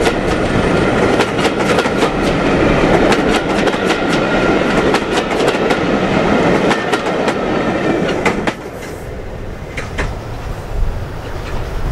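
Passenger coaches rolling past at speed, their wheels clicking over the rail joints in quick irregular clusters. The sound drops sharply about eight and a half seconds in as the last coach goes by, leaving a few faint clicks and a low rumble.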